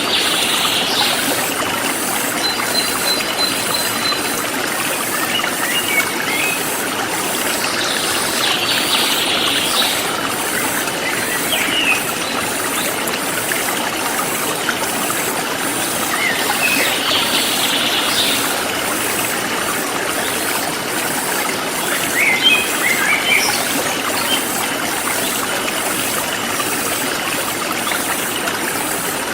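Forest stream flowing steadily, with birds chirping in short bouts every few seconds over a high, evenly pulsing insect chorus.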